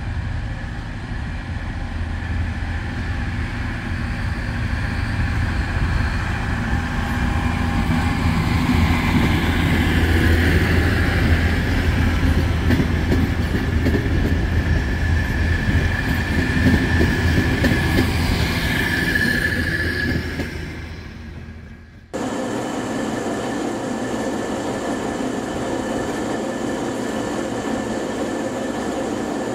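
A passenger train rolls along the platform track. Its rumble builds over several seconds, with a high, steady wheel squeal on the rails that peaks and then fades away. It cuts off abruptly and is followed by a steady mechanical running sound.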